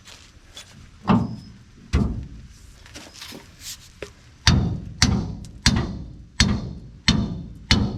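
Hammer striking metal: two separate blows early on, then from about halfway a steady run of hard blows about every two-thirds of a second, each with a short ring.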